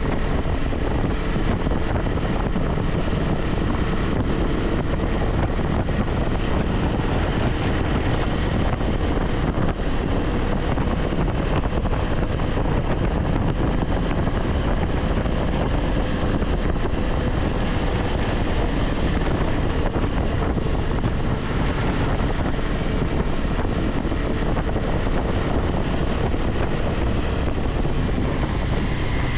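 KTM 390 Adventure X single-cylinder engine running at a steady cruise, mixed with wind rushing over the microphone.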